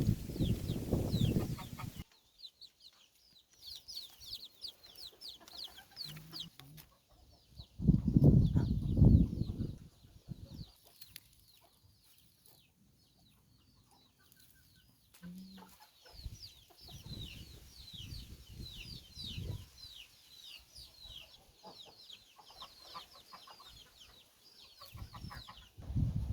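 Backyard poultry: chickens clucking in loud bursts near the start and about a third of the way in. Between them, small birds chirp in long runs of rapid, high, falling notes.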